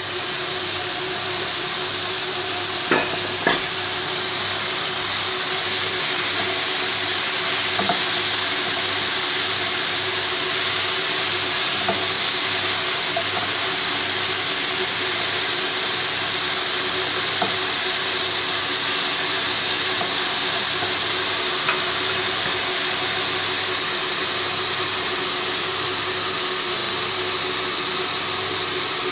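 Chicken and broccoli sizzling steadily in a sauté pan over a gas flame. A silicone spatula clicks against the pan twice about three seconds in, with a few lighter taps later, over a steady low hum.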